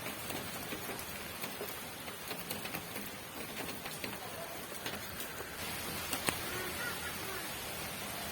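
Steady rain falling, an even hiss with scattered sharp drip ticks, one louder tick about six seconds in.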